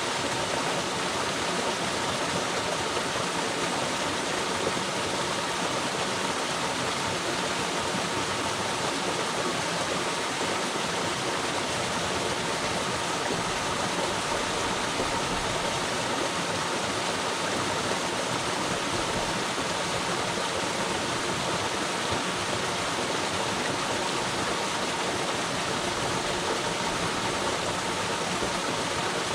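Waterfall, water cascading in a steady, unbroken rush.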